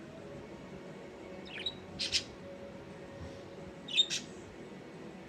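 Pet budgerigar chirping: two short bursts of high chirps, one about a second and a half in and a louder one about four seconds in.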